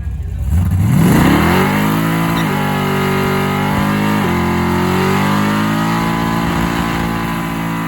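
Ford 351 Windsor V8 accelerating hard under load, revving up quickly and then shifting twice through a C4 three-speed automatic, the engine pitch dropping at each shift about two and a half and four seconds in before climbing again.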